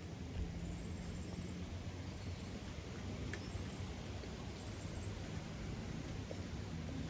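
Steady gusty wind blowing on the microphone and through the trees ahead of a hurricane, with four short, high-pitched chirping trills from a small animal during the first five seconds.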